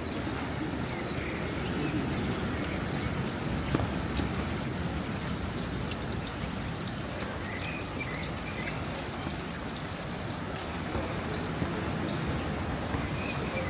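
Steady rain falling, with a bird repeating a short, high chirp about once a second.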